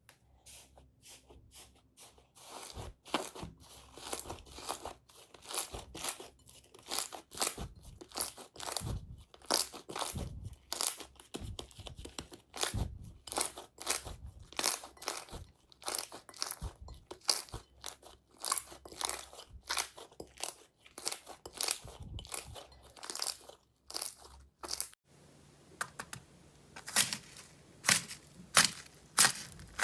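Slime being pressed and squeezed by hand, giving a run of crunchy crackles and pops about two to three a second. The background changes suddenly about 25 seconds in, and the crackles grow louder after that.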